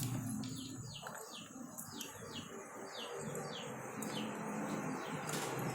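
A bird calling a rapid series of short, high, falling notes, about three a second, over a faint steady hum, with a light click near the end.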